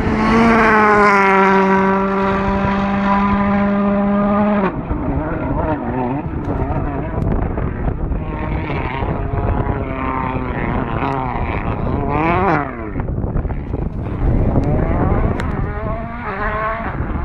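Volkswagen Polo R WRC rally car's turbocharged four-cylinder engine at high revs. A loud steady note holds for about four and a half seconds, then cuts off abruptly. It is followed by further engine runs with revs rising and quick up-and-down swoops in pitch.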